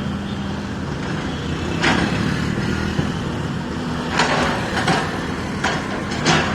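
Bulldozer's diesel engine running steadily under work, with several short, sharp noises from the machine over it.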